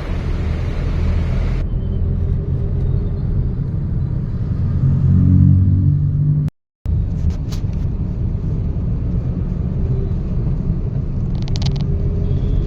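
Steady low rumble of a car's engine and road noise heard from inside the cabin, with the engine note rising for a moment a little past the middle. The sound drops out briefly at a cut, then the rumble carries on.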